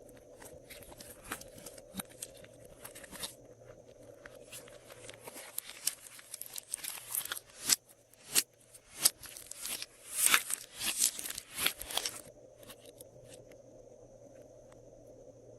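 Slime being mixed and squished by hand, making irregular sticky crackles and pops, busiest in the middle and thinning out near the end.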